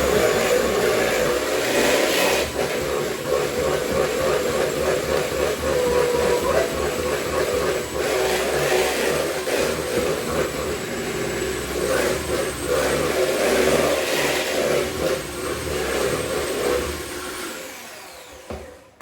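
Electric kitchen mixer running steadily, beating eggs into a cake mixture, then winding down and stopping near the end.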